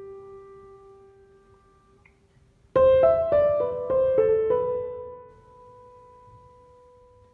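Background piano music: a held note dies away, then about three seconds in a short run of notes is played and the last one is left to ring and fade.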